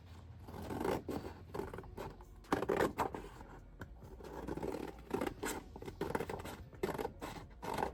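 Scissors cutting through scrapbook paper: a run of irregular snips with the paper rustling between cuts.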